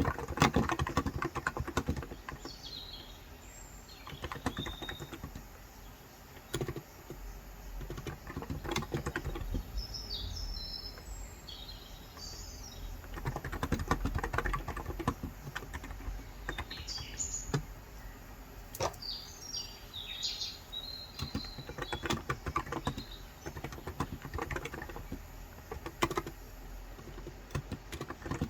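Typing on a Cox Endeavor electrostatic-capacitive (contactless) tenkeyless keyboard with light 35 g switches, in uneven bursts of rapid keystrokes. Birds chirp in short high calls in the background, several times.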